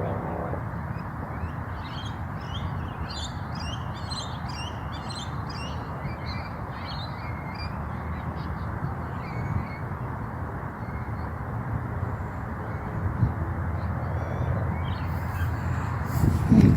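Birds calling in a flurry of short, high chirps for the first several seconds, thinning out later, over a steady low background rumble. A brief loud bump near the end.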